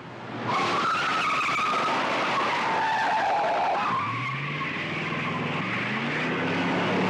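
Car tyres squealing in a wavering screech through a hard skid, followed from about four seconds in by a car engine accelerating hard, its pitch climbing in several rising sweeps.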